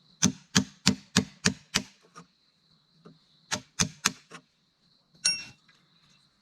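A hand tool striking wood or a similar hard surface in quick repeated blows: six in a row about three a second, then four more after a short pause, then a final strike with a brief ringing.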